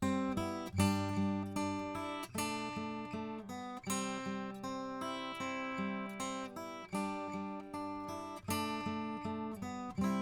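Acoustic guitar playing a picked and strummed chord passage, each new note plucked about every half second to a second and left ringing, heard through a Warm Audio EQP-WA tube equalizer set to cut the lows.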